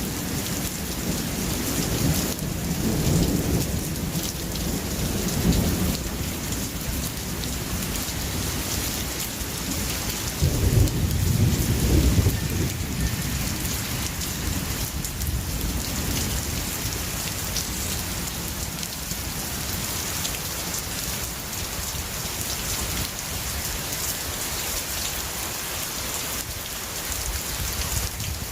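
Steady rain falling, with rolling thunder: low rumbles in the first few seconds and a louder peal of thunder about ten to twelve seconds in, after which the rain goes on alone.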